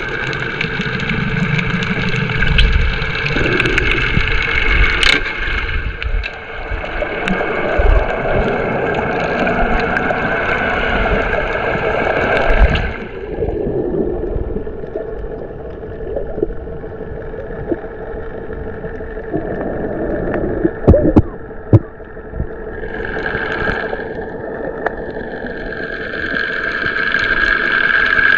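Water sloshing and gurgling around a camera during snorkelling, over a steady hum, with a few knocks about two-thirds of the way in and sweeping, rising-and-falling sounds near the end.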